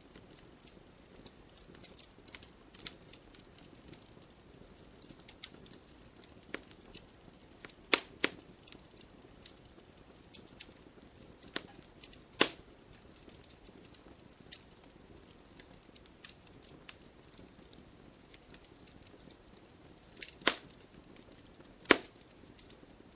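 Wood fire crackling in a fireplace: a faint steady hiss with scattered small crackles and a few sharp, louder pops, the loudest near the middle and near the end.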